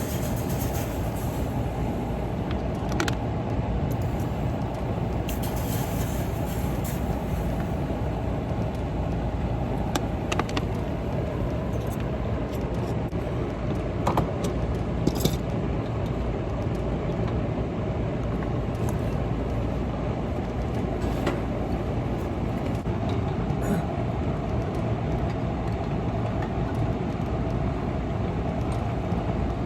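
A machine running steadily, with a few light clicks.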